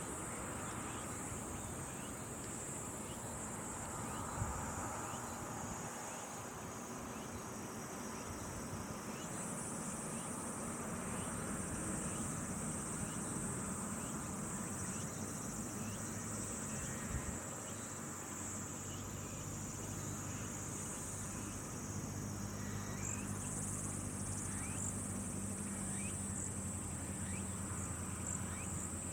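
Steady, high-pitched insect chorus with many small, short chirps over it, and a soft click about four seconds in and again around seventeen seconds. A faint low hum joins in the second half.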